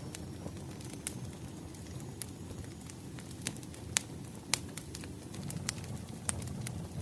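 Burning firewood crackling: sharp pops come at irregular moments over a low, steady rumble of the fire, with two louder pops around the middle.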